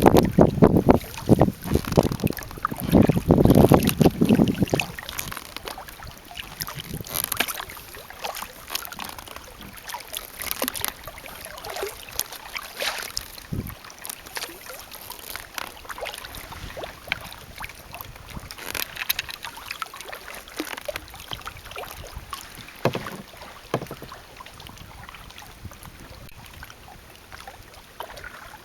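Kayak paddle strokes splashing and dripping water every few seconds, with wind buffeting the microphone for the first few seconds.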